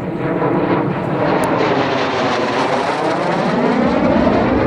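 MiG-15UTI's single turbojet engine as the jet passes close, its noise growing louder over the first second and then staying loud, with a sweeping, phasing hiss as it goes by.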